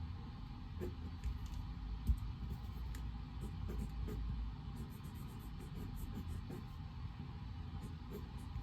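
Study-room ambience: a steady low hum and rumble of background noise, with scattered small ticks and taps and a single soft thump about two seconds in.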